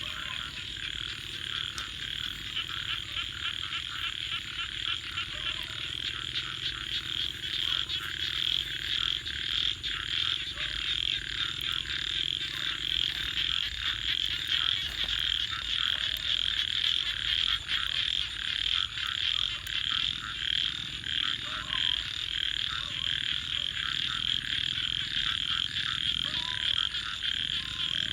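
A chorus of frogs calling without pause, a dense rapid trilling, with a wood fire crackling faintly underneath.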